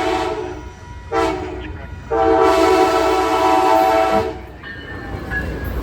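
Amtrak locomotive air horn sounding a chord in a long blast, a short blast and another long blast, the end of the long-long-short-long pattern blown for a grade crossing. After the last blast the train's running rumble carries on.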